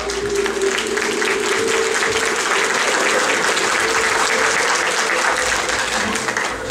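An audience clapping steadily after a song, fading away near the end.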